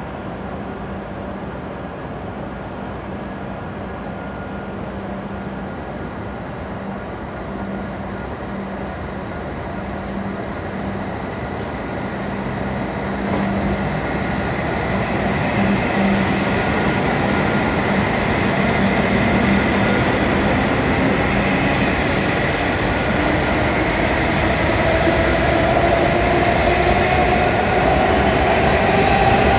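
E7-series Shinkansen train pulling out and gathering speed. At first there is a steady low hum; then the traction motors whine in rising tones and the running noise grows steadily louder through the second half.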